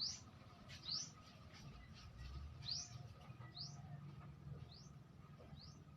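A bird chirping: short, high, upward-sweeping chirps, about one a second.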